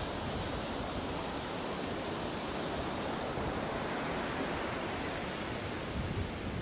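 Steady rushing noise of wind and harbour water on a ferry's open deck, an even hiss without any clear engine note or single events.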